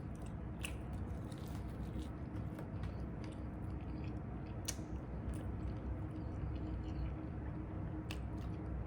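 Close-up chewing of a chicken wing coated in crushed Flamin' Hot Doritos, with a few sharp crunches of the crispy coating scattered through the chewing.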